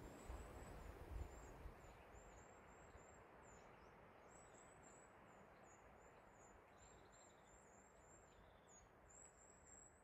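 Faint high-pitched bird chirping, a quick series of short thin notes repeating throughout, over a soft steady hiss of outdoor ambience, with a little low wind rumble in the first second or so.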